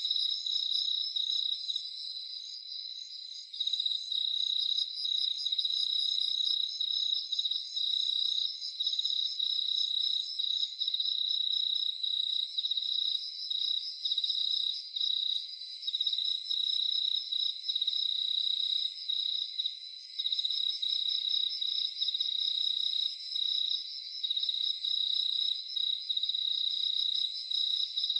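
Crickets chirping in a chorus: a steady high trill with several faster pulsing calls layered over it, briefly softer a few seconds in.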